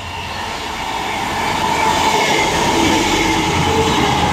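ScotRail Class 158 diesel multiple unit passing through the station without stopping, engines and wheels on the rails getting louder as it draws near and runs past close by, with a steady whine over the rumble.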